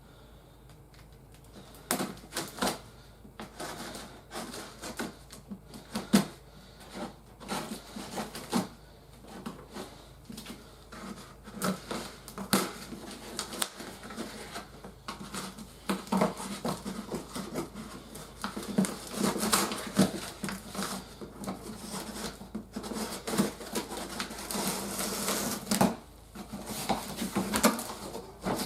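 Toy packaging being opened and handled: irregular clicks, knocks and clatter of cardboard and plastic, getting busier with rustling in the second half.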